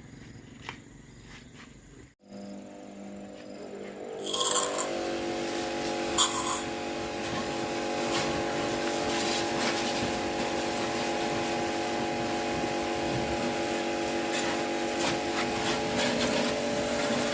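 Faint clicks and knocks, then from about four seconds in a machine motor starts running steadily with an even hum, with a couple of sharp knocks as it starts.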